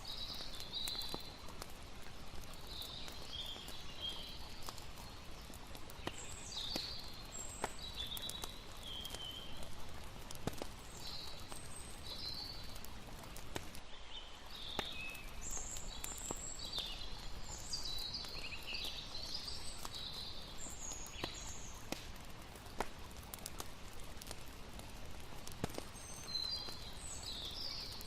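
Layered night ambience: a crackling campfire with many sharp pops, over a steady hiss of water, with scattered bursts of high chirping calls throughout.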